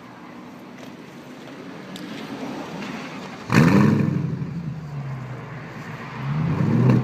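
BMW's loud exhaust as the engine is revved: the sound builds slowly, a sharp rev jumps up about three and a half seconds in and falls away, then another rev builds near the end.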